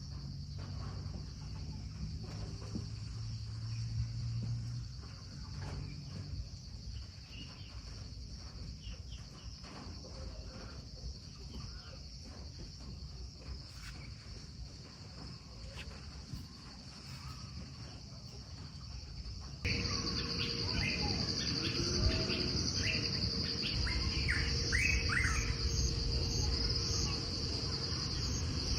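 Crickets trilling steadily in a high band. About two-thirds of the way in it cuts abruptly to a louder stretch where birds chirp over the insects.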